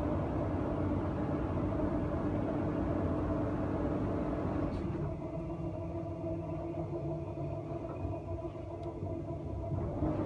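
Cabin of a Queensland Rail electric suburban train on the move: a steady low rumble of the running carriage with a steady hum. About halfway through the higher hiss fades and the rumble eases a little.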